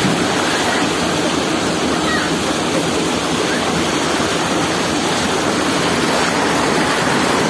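Steady rushing of flowing water, like a river current or waterfall.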